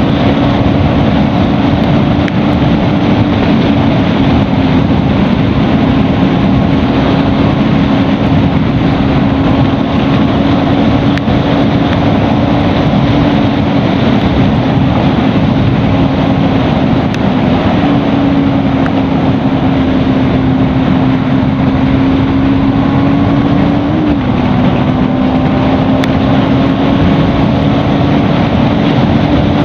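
Bajaj Pulsar NS200's single-cylinder engine running at a steady cruising speed with wind and road noise, heard from the rider's position. The engine note holds steady and rises slightly about two-thirds of the way through.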